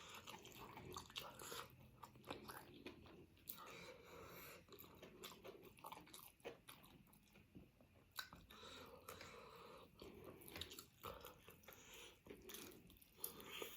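A person chewing and biting food close to the microphone, quiet, with many small sharp mouth clicks throughout.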